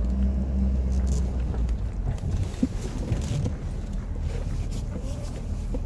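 A Ford F-250's 6.7 L Powerstroke V8 turbo-diesel running, with the snowplow's hydraulic pump humming for about the first two seconds as the blade is straightened.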